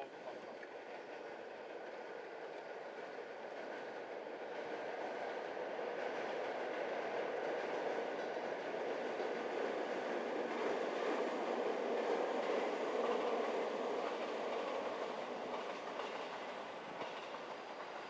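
JR 205 series electric commuter train passing on the tracks. Its running noise builds over several seconds, is loudest about two-thirds of the way through, then eases off.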